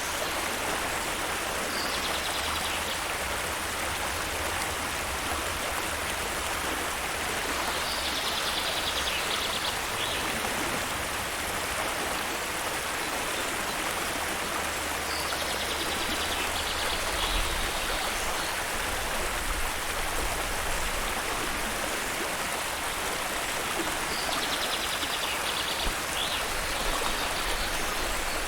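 Steady rush of waterfall water. A short, high, rapidly pulsing trill comes back about every seven seconds, four times in all.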